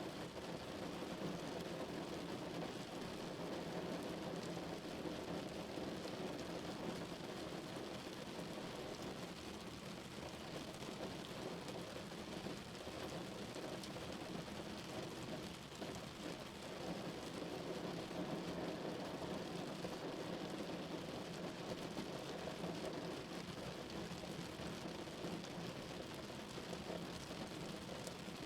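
Rain falling steadily on a car's body and windows, heard from inside the cabin as an even patter with most of its weight low down.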